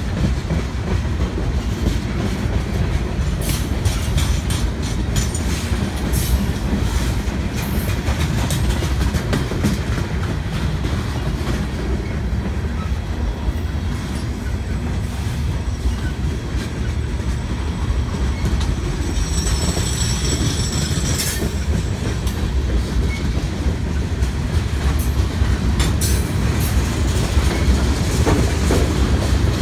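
Freight train boxcars rolling past at close range: a steady heavy rumble with the clatter and clicks of steel wheels over the rail joints. A brief high-pitched wheel squeal rings out about two-thirds of the way through.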